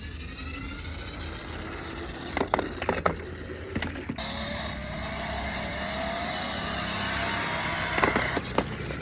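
Toy car's small motor whining, its pitch rising slowly in two runs, each cut off abruptly. Several sharp plastic clicks and knocks fall in between.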